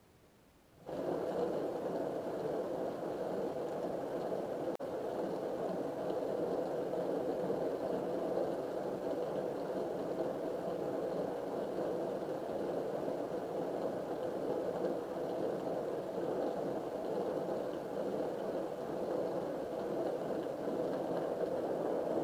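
Dishwasher starting up: its wash pump and water spray come on suddenly about a second in and then run steadily.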